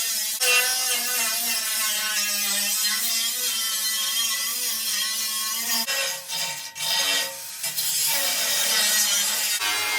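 Angle grinder with a cut-off disc cutting through the tractor's steel frame: a steady high whine over a loud hiss. It drops away briefly a couple of times just past the middle as the disc eases off the cut.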